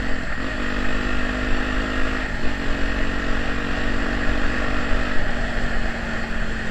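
Honda XR250 Tornado's single-cylinder four-stroke engine running through an aftermarket Pro Tork exhaust while the bike is ridden, a loud, steady exhaust note that steps to a new pitch about half a second in, again after about two and a half seconds and after about five seconds, over a low rumble of wind.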